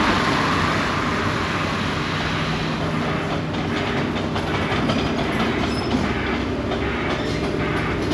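A train passing on the line: a steady rush with a low hum, and rapid clicking of wheels over the rails from about three seconds in.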